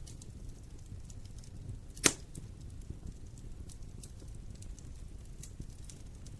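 Wood fire burning in a fireplace: a low steady rumble with scattered small crackles, and one sharp loud pop about two seconds in.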